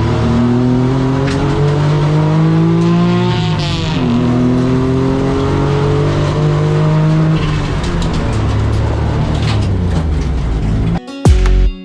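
A kei car's small 660 cc engine accelerating hard on track. The pitch climbs, drops sharply at an upshift about four seconds in, climbs again, then eases off. Music cuts in abruptly near the end.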